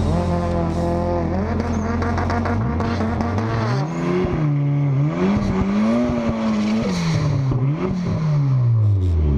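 Race car engine revving, its pitch climbing and falling several times, then dropping back toward idle near the end.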